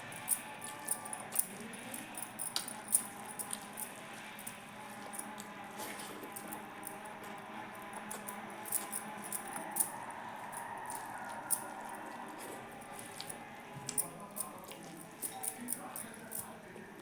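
Close-up eating sounds: wet chewing, lip smacks and mouth clicks, coming in irregular clusters of several a second.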